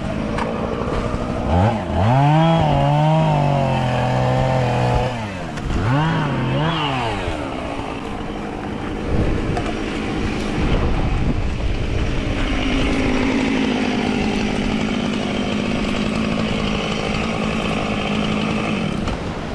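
An engine starting up and revving up and down unevenly, then running at a steadier speed in the second half, with wind rushing across the microphone.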